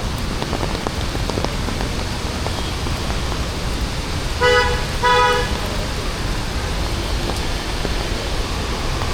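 A vehicle horn honks twice in quick succession about halfway through, two short toots, over a steady hiss of rain and street traffic.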